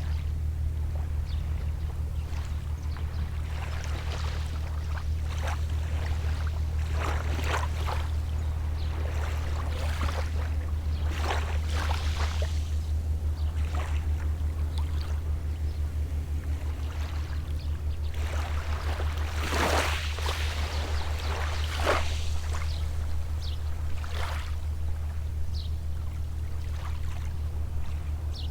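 Small sea waves lapping and washing onto the shore in a series of soft splashes, a larger wash about twenty seconds in, over a steady low engine drone from a distant boat.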